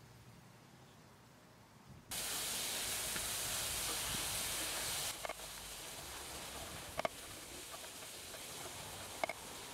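Tamarind chili paste frying in a cast-iron skillet over a fire, stirred with a wooden spoon: a steady sizzle that starts suddenly about two seconds in and eases a little a few seconds later, with a few sharp knocks of the spoon on the pan.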